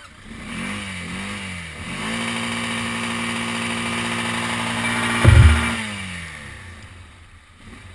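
Quad engine blipped twice, then held at high revs for about four seconds before the revs slide back down, with a loud thump near the peak. The throttle is being held open to stop the engine from stalling.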